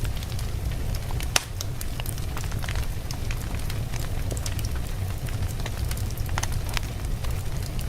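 Wood fire burning in a fireplace, logs crackling with irregular sharp pops over a steady low rumble. One louder pop comes about a second and a half in.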